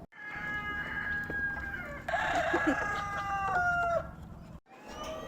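Roosters crowing: a long, drawn-out crow that drops in pitch at its end about four seconds in, with a second, louder crow overlapping it in the middle.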